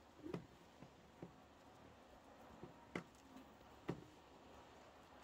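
Near silence with a few faint, scattered clicks and light knocks, the clearest about three and four seconds in.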